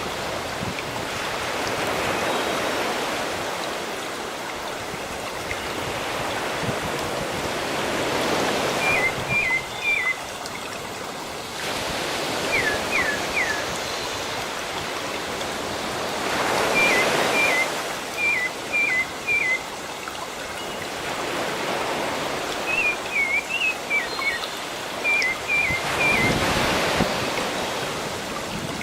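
Sea waves washing in slow swells every few seconds, with a small bird repeating quick chirps in groups of three or four, starting about a third of the way in.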